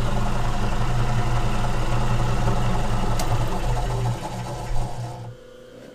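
Machine-tool spindle motor running steadily at slow speed with a low hum, a sharp click about three seconds in, then winding down and stopping near the end.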